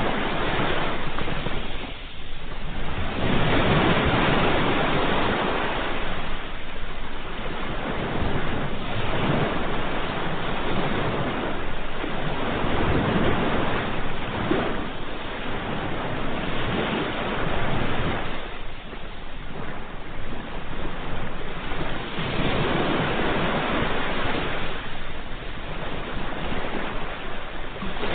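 Ocean waves breaking and washing on a shore in continuous surf. Each wave swells and ebbs every few seconds, with brief lulls about two seconds in and again just before twenty seconds.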